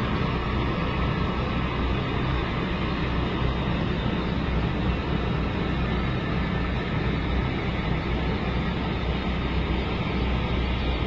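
Toilet water running steadily as the bowl flushes and the tank refills, an even rushing without breaks.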